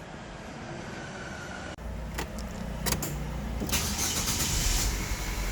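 LPG-converted car engine starting and then running, with sharp clicks as it catches and a brief hiss about four seconds in. The engine runs roughly, making the car shake heavily, a misfire the mechanic traces to the injector or current side of the gas conversion.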